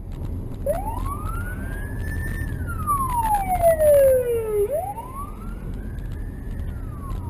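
Emergency vehicle siren wailing, sliding slowly up and down in pitch twice over a low, steady rumble.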